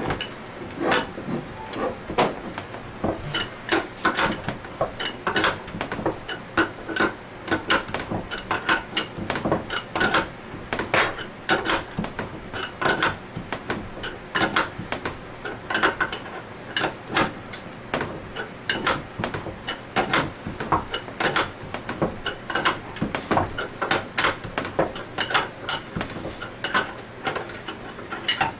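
Metal hand tool clicking in short, repeated strokes as a threaded puller is turned to press two bearings out of an Anest Iwata ISP250 scroll pump at once: a dense, uneven series of sharp metallic clicks and clinks.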